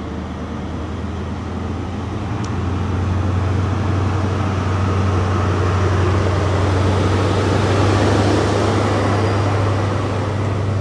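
Diesel engine of a Class 43 HST power car running under power as the train pulls out: a steady low hum under a broad rumble that swells for several seconds and eases slightly near the end as the power car goes by.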